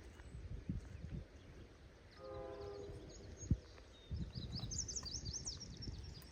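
Diesel locomotive's Nathan K3LA multi-chime air horn sounding one short blast about two seconds in, over a low steady rumble. Small birds chirp near the end.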